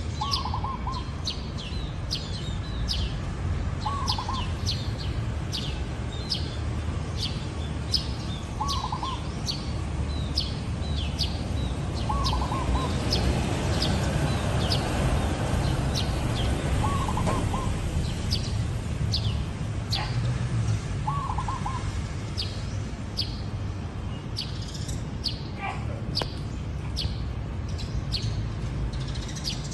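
Zebra dove cooing: a short, quick trilled coo repeated about every four seconds, seven times, with a longer pause before the last. Other small birds chirp with high, short notes throughout, over a steady low background rumble.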